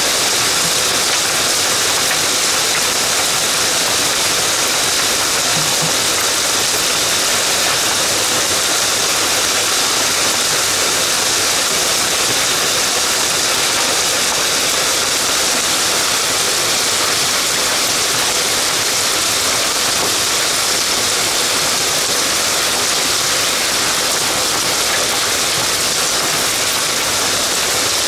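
Heavy downpour mixed with hail falling on grass and concrete: a dense, steady hiss with no let-up.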